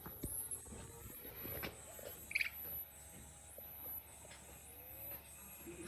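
High-pitched animal calls, each rising quickly then holding, repeating about once a second, with a short, louder chirp a little over two seconds in and faint scattered clicks.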